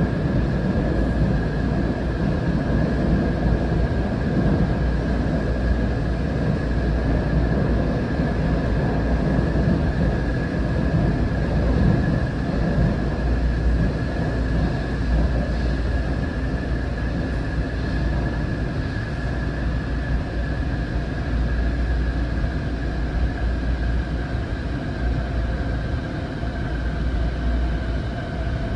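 LIRR M9 electric multiple-unit train running, heard from aboard: a steady low rumble of the wheels on the rails with a constant high whine over it.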